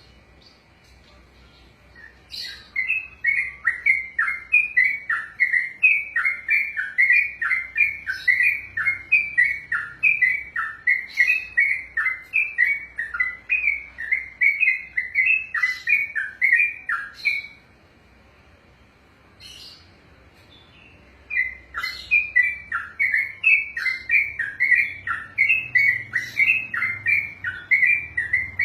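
Yellow-vented bulbul (trucukan) singing a long rapid run ('ropel'): a quick string of repeated falling notes, about three a second. It breaks off for about four seconds midway, then resumes.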